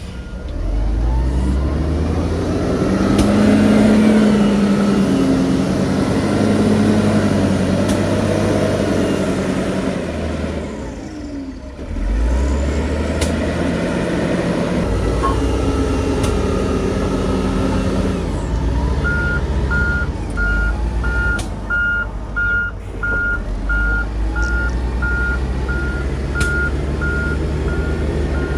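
Heavy diesel construction machinery working, its engine pitch rising and falling under load. From about two-thirds of the way through, a reversing alarm beeps steadily, about once a second.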